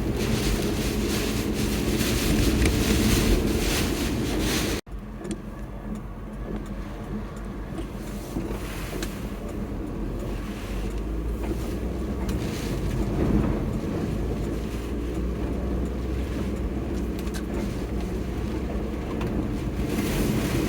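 A steady low engine-like rumble with wind gusting on the microphone. An abrupt cut about five seconds in leaves it quieter.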